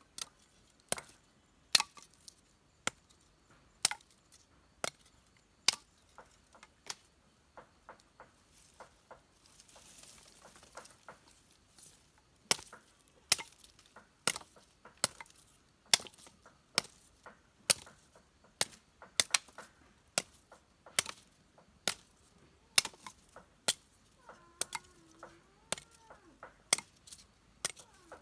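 Repeated sharp chopping strikes of a blade, about one to two a second and some in quick pairs, steady through the whole stretch.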